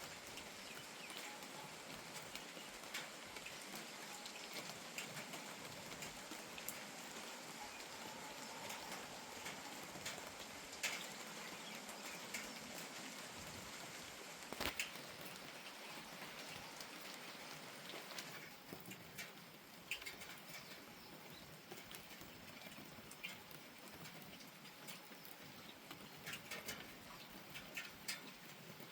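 Light rain falling steadily, with scattered single drops ticking sharply. About two-thirds of the way through, the rain's hiss eases and individual drips stand out more clearly.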